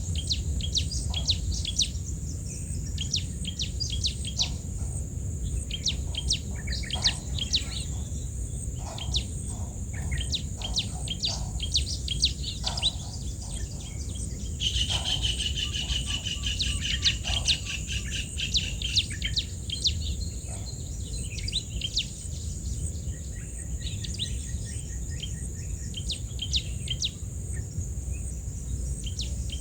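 Birds chirping in many quick, short notes, with a trilled call running for several seconds about halfway through. Underneath there is a steady high-pitched buzz and a low rumble.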